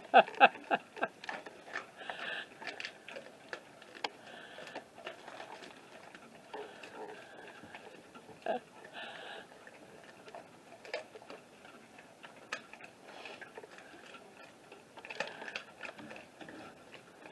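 A dog chewing and crunching a pig ear: irregular clicks and crunches, loudest in the first second or so, then fainter and scattered.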